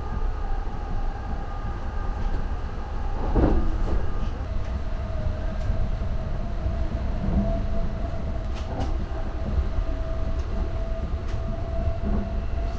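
Electric express train (E261-series Saphir Odoriko) running, heard from inside the passenger car: a steady low rumble with one knock about three and a half seconds in. A steady whine joins the rumble soon after.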